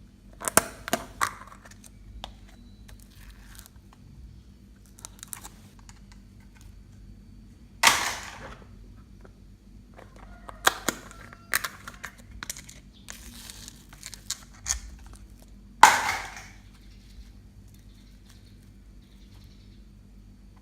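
Homemade slime being pressed and mixed by hand, giving off sharp pops and crackles as trapped air bursts: a quick cluster near the start, louder single pops about eight and sixteen seconds in, and smaller crackles in between.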